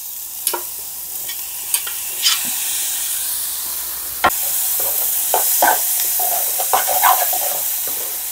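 Calabresa sausage, onion and diced tomato sizzling as they fry in a small pan, with short scraping clicks of a knife and spoon against the pan. The sizzle gets louder about four seconds in.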